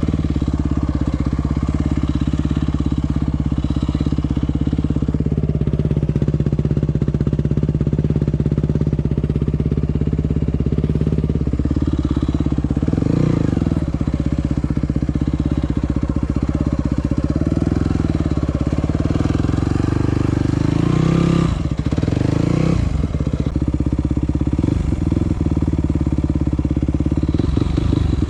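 Yamaha WR250F single-cylinder four-stroke engine running steadily, with short rises and drops in revs a few times: about halfway through, around three-quarters through and again at the end.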